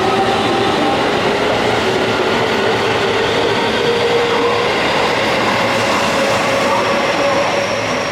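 Electric commuter train pulling out, its traction motors whining in several tones that climb slowly in pitch over steady wheel-and-rail noise.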